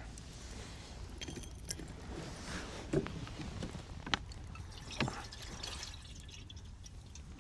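Liquid pouring and dripping, with a few sharp clinks about three, four and five seconds in, over a steady low rumble.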